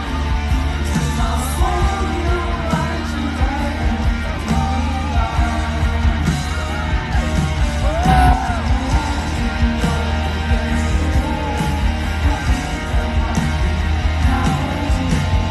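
Live rock band playing at a stadium concert, with heavy bass and drums, and voices singing and shouting over the music.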